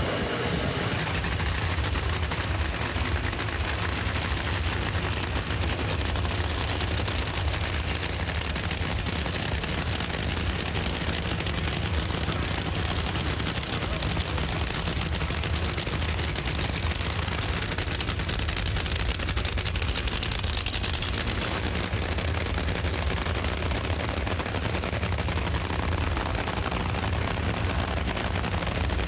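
Supercharged nitromethane Funny Car V8 running with a steady, rapid, gunfire-like crackle.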